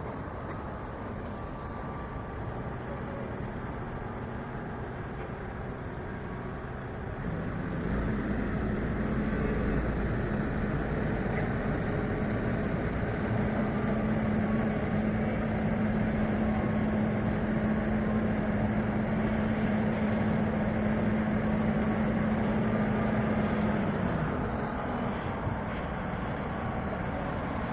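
A truck's diesel engine working hard under load. About 8 s in, its note rises to a steady high-revving drone, which holds and then drops back at about 24 s.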